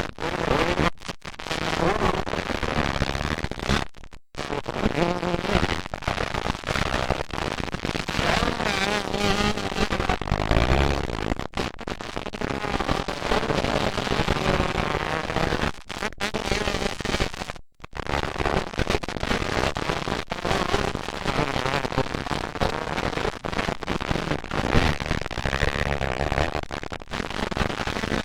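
Several motocross dirt bike engines racing, their pitch rising and falling as the riders rev and shift, with a crackling exhaust note. The sound cuts out completely for an instant twice.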